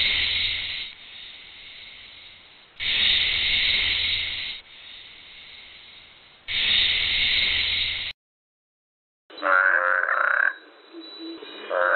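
Animal calls: three repeated rasping calls about a second and a half long, a short silence, then a different, clearly pitched call from about nine seconds in.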